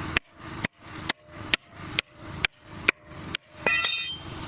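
Hammer blows on a JCB loader's wheel, working the tyre bead off the rim: eight sharp strikes at about two a second, then a ringing metallic clang near the end.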